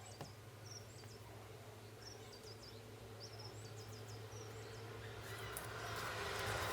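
Small birds chirping in short repeated groups of high notes over a steady low hum. About five and a half seconds in, a wide rush of noise swells and grows louder.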